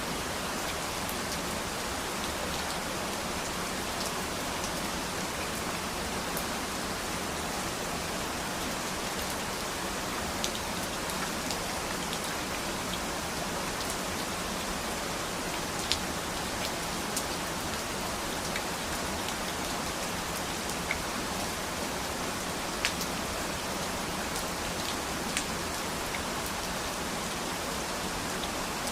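Steady rain falling, an even hiss with scattered sharper drop ticks, a few louder ones about halfway through and later.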